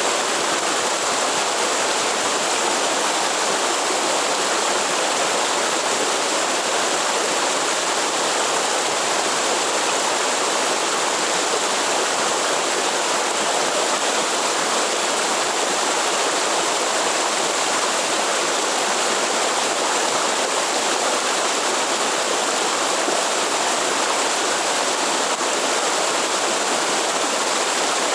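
Waterfall in the Atlantic Forest: a steady rush of falling water that doesn't change.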